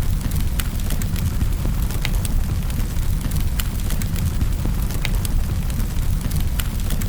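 Wood fire crackling in a fireplace: a steady low rumble of burning with irregular sharp pops and crackles scattered through it.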